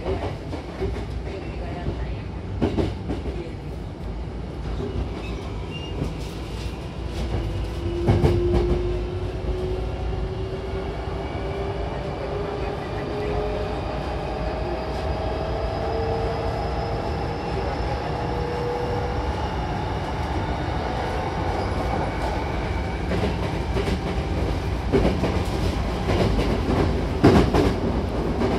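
Hankyu electric commuter train running, heard from inside the car by the doors: a steady rumble of wheels on rail with clacks over rail joints, loudest about 8 seconds in and near the end. A traction-motor whine rises slowly in pitch for over ten seconds as the train gathers speed.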